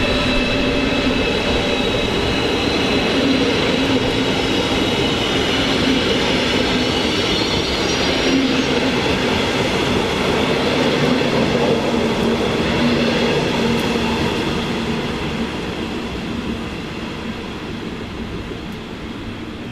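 A passenger train running through a station, its rumble carrying several steady high-pitched tones, like wheel squeal or motor whine. The sound fades over the last few seconds as the train moves away.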